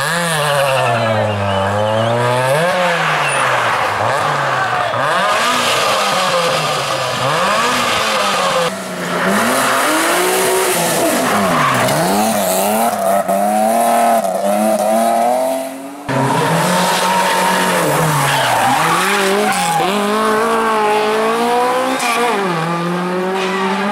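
Rally cars at full throttle on a stage, the engine note climbing and dropping again and again through gear changes and lifts for corners. About 16 seconds in the sound cuts abruptly to another pass of the same kind.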